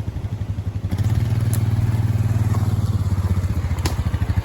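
Mini pit bike's small single-cylinder engine idling with a fast, even putter, getting louder about a second in, with a couple of sharp clicks over it.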